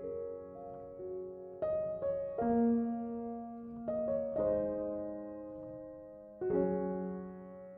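Slow, gentle piano background music: soft chords struck every second or two and left to ring and fade.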